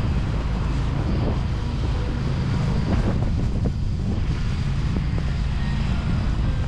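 Wind rumbling steadily on the microphone over the low drone of downtown street traffic.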